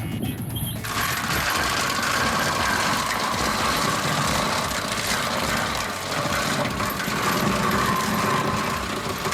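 A rock crusher running, with a loud, continuous metallic clatter and grinding of stone being broken. It cuts in about a second in, after a short tail of music.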